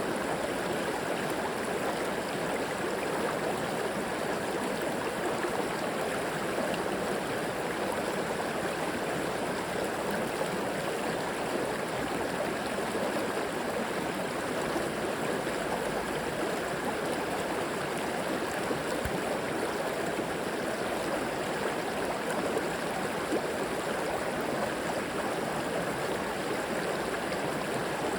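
River water flowing and gurgling steadily over rocks, an even rushing without a break.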